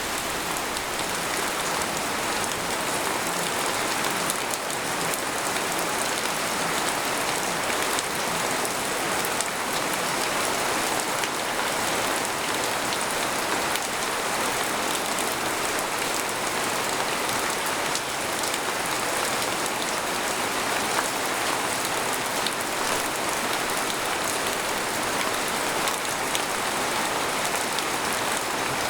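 Steady rain falling on a tent, an even hiss with many small drop ticks on the fabric.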